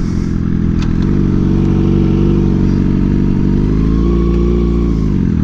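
Suzuki GSX-R 600's inline-four engine running while ridden. Its pitch climbs about a second in, holds steady, then falls away near the end as the revs drop.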